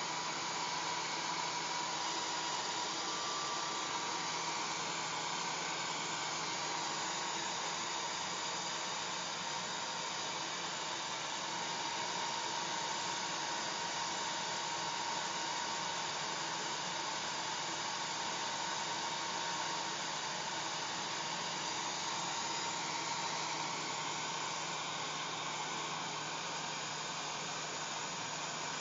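Hair dryer running steadily: a continuous rush of blown air with a steady whine from the motor.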